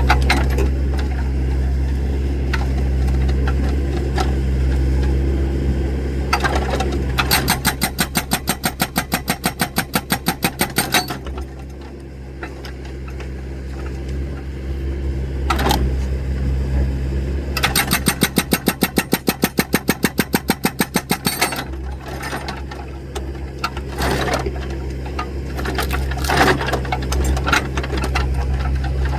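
Excavator's diesel engine running steadily while it splits firewood, with two spells of rapid, regular knocking several seconds long, about a quarter and two thirds of the way in, and a few single sharp knocks between them.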